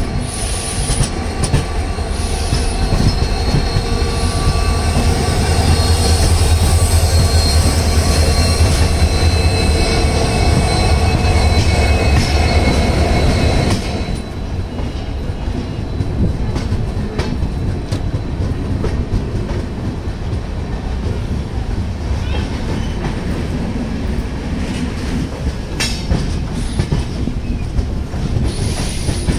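Passenger train rolling slowly on a curve, heard from an LHB coach doorway: wheels clacking over rail joints with some flange squeal. For the first half, a heavy diesel engine drone from twin WDM3D locomotives alongside on the next track grows louder, then drops off suddenly about halfway, leaving the lighter rolling and clacking of the coach's wheels.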